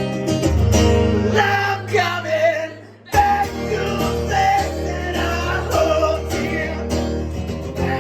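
Live song: strummed guitar with a voice singing over it. The music drops away for a moment about three seconds in, then comes straight back in.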